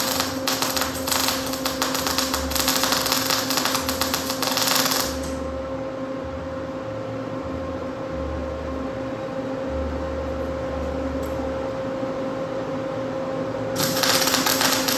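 Sandblaster spraying abrasive grit against a cast-iron Ford 9-inch differential housing: a harsh crackling hiss for about the first five seconds, which stops and starts again near the end. A steady motor hum runs throughout.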